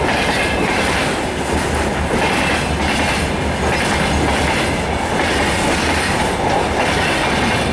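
Freight wagons rolling past close by, their wheels clattering over the rail joints in a repeated clickety-clack over a steady rumble of wheel and rail noise.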